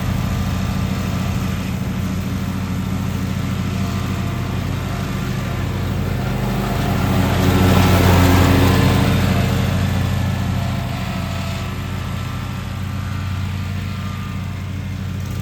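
Lawn mower engine running steadily under load, growing louder for a couple of seconds about halfway through, then easing back.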